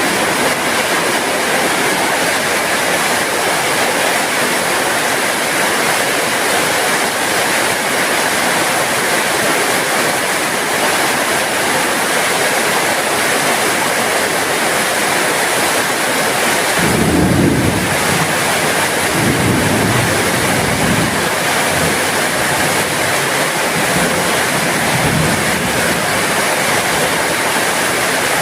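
Heavy rain falling steadily. About two-thirds of the way in a low rumble of thunder rolls for a couple of seconds, followed by fainter rumbles.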